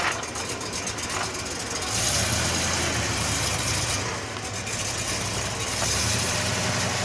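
Car engine with open headers running with a rough, uneven beat, which an onlooker likens to a missing cylinder. It gets louder for about two seconds from about two seconds in, and again near the end.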